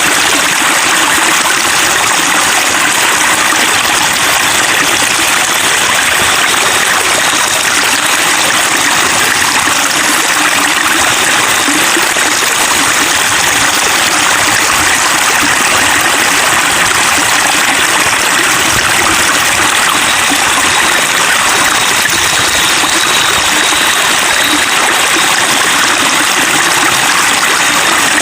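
Flowing water babbling and splashing steadily, an even rush with no breaks or separate events.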